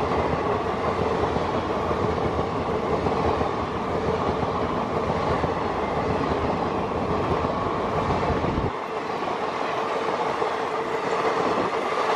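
Passenger train coaches rolling past close by: a steady rumble of wheels on rail with a faint humming tone, the deepest part of the rumble dropping away about nine seconds in.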